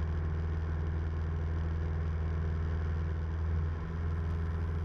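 Cessna 172M's four-cylinder Lycoming engine and propeller droning steadily in cruise descent, heard from inside the cabin, with a slight brief dip in level about four seconds in.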